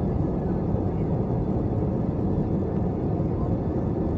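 Steady low rumble inside the cabin of an Airbus A321, with no change in level.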